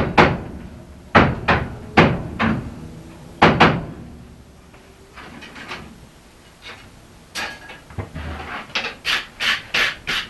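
Hand hammer striking a hot felling axe head on an anvil to true up one side. A few heavy blows come in the first four seconds, then a short pause, then a quicker run of lighter taps, about three a second, near the end.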